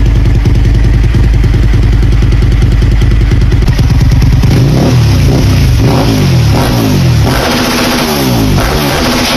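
Suzuki TL1000R's 996cc 90-degree V-twin running at a steady low idle, then revved in a series of throttle blips from about halfway, the pitch rising and falling with each one.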